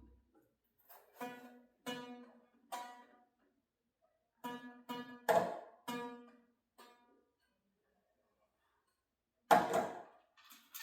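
Single strings on a plucked string instrument picked one at a time during tuning: several notes, mostly at about the same pitch, each ringing briefly with pauses between. About nine and a half seconds in comes a louder, sharper pluck.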